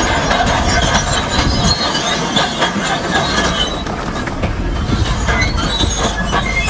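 Heavy earthmoving machinery working rock: continuous metallic squealing and clanking with a dense clatter of stones.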